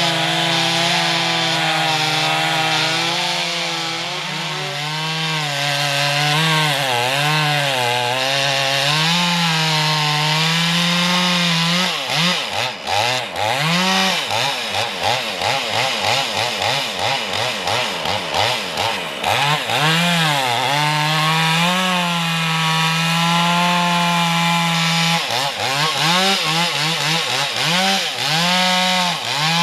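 Two-stroke chainsaw running at high speed, its pitch sagging slightly as if cutting under load. From about 12 to 20 seconds in and again near the end, the throttle is blipped rapidly up and down, in between a stretch held steady at full throttle.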